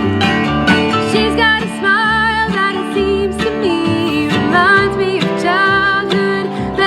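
A band playing a song: guitar with a held, wavering melody line that sounds like singing over it.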